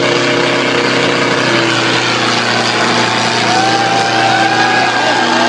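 Tractor engines running hard under heavy pulling load, a loud steady din. Higher wavering tones come in over it about three and a half seconds in.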